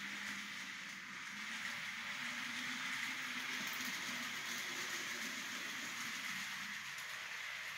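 Model train running on the layout track: a steady rolling hiss of wheels on rail with a faint low motor hum underneath.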